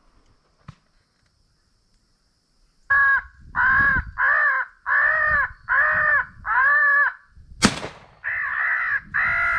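About three seconds of near silence, then a steady run of harsh crow caws, about one and a half a second and much alike. A single sharp bang cuts in near the end, and the cawing carries on after it.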